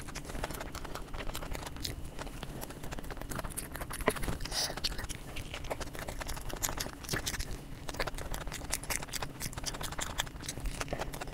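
Close-miked eating of a samosa: a steady stream of chewing, wet mouth clicks and crackles, with one sharper click about four seconds in.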